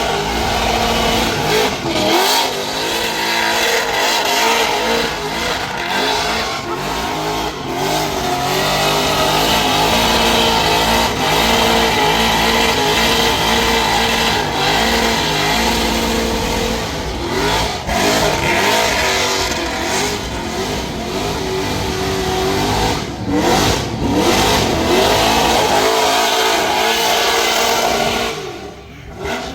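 A car engine revving hard and held at high revs for a burnout, the pitch bobbing up and down, dipping briefly a couple of times and dropping away near the end.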